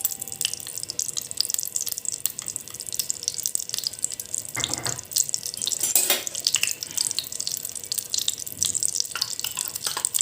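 Ghee and vegetable oil sizzling and crackling in a hot pan, heated and ready for the minced garlic, with a couple of louder spits about halfway through.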